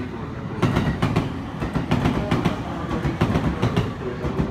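Train running along the tracks, its wheels knocking over rail joints in a quick irregular series over a steady rumble.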